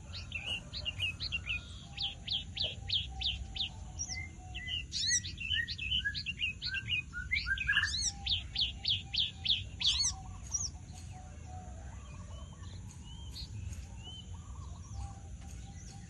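Javan bush lark (branjangan) singing a rapid, varied song of quick high sweeping notes, trills and fast runs of repeated notes. The song thins to sparse, fainter notes after about ten seconds. A steady low hum runs underneath.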